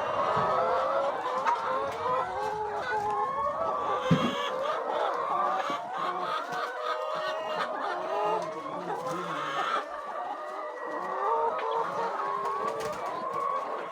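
A flock of chickens clucking and calling, many birds at once in a steady overlapping chorus.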